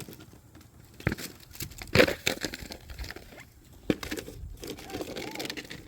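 Rustling and handling noises with a few sharp knocks, the loudest about two seconds in.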